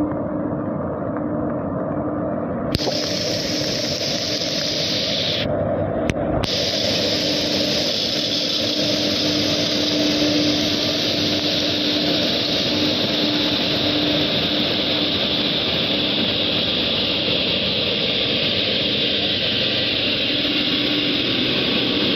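Steady rush of heavy rain with a faint, steady low hum under it; the sound changes abruptly about 3 and 6 seconds in.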